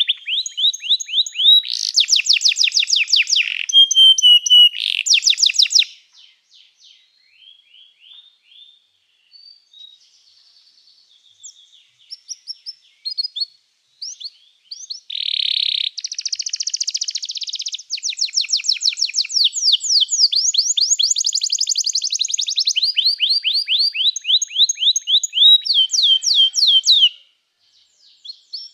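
Domestic canary singing fast repeated trills and rolls: loud for the first several seconds, then soft and broken for a while, then long loud trills again from about the middle on.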